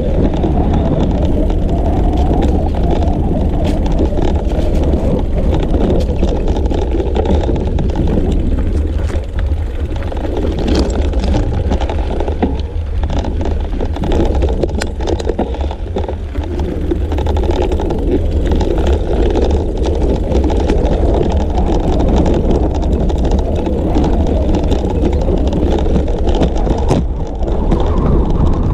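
Wind buffeting the microphone of an action camera on a moving bicycle: a loud, steady rumble that eases slightly for a few seconds midway.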